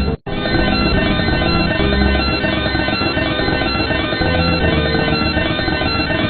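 A loud, dense sound effect of many tones stacked together, held steady, with a brief cut just after the start.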